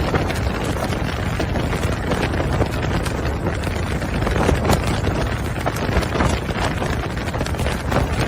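Wind buffeting the microphone: a steady low rumble with scattered crackles, as if moving at speed in the open.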